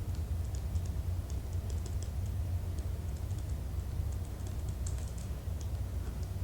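Light, irregular clicking of typing on a computer keyboard, over a steady low hum.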